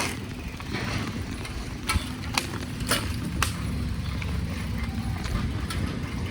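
Bicycle being ridden over a dirt road: a steady low rumble of tyres and riding, with four sharp clicks about half a second apart near the middle.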